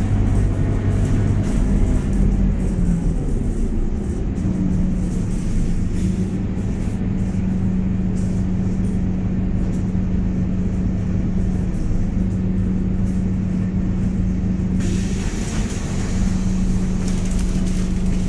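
Scania K230UB city bus running under way, its ZF automatic gearbox giving a loud steady whine over the diesel engine's drone. The whine's pitch shifts between about two and four seconds in, then holds steady. A hiss comes in a few seconds before the end.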